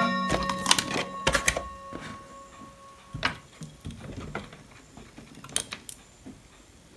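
Sharp clicks and clatter of small hard objects being handled on a workbench, several in quick succession near the start and a few more later. A steady electrical hum runs under the first three seconds and then stops.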